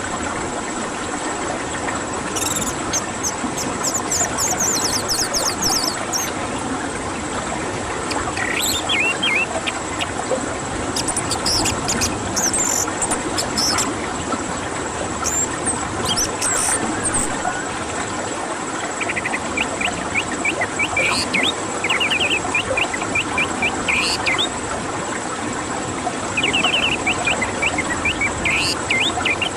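Orange-headed thrush song: short runs of quick, high chirped notes, repeated every few seconds over a steady hiss.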